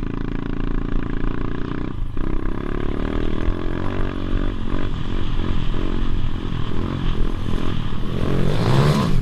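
Motorbike engine running, its pitch shifting up and down as it revs, with a brief break about two seconds in.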